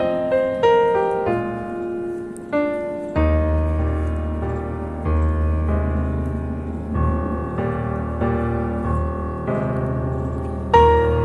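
Background piano music: a slow melody of single struck notes, joined by sustained low bass notes about three seconds in.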